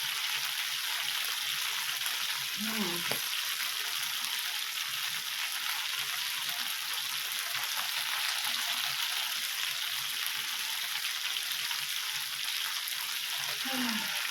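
Teriyaki chicken kebabs sizzling on a grill: a steady frying hiss.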